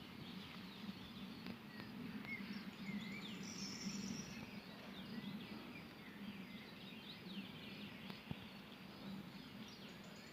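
Faint rural outdoor ambience with several small birds chirping and calling in short, varied notes, over a steady low hum, and a single light click about eight seconds in.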